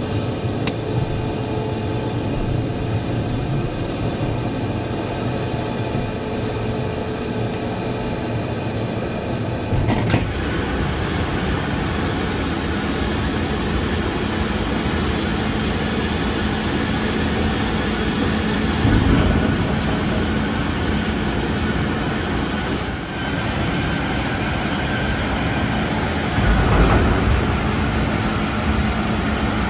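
A semi truck running down the road: steady engine and road noise. The character of the noise changes abruptly about ten seconds in.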